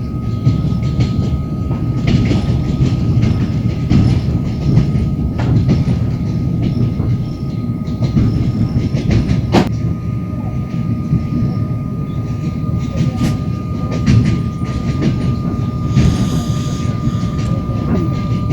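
Passenger train wheels running over the track, heard from inside the carriage: a steady low rumble with irregular clacks over the rail joints and a sharp click about halfway. A thin steady whine runs under it throughout.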